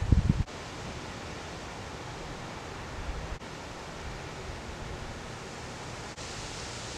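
Steady wind hiss, with a short burst of wind buffeting the microphone right at the start.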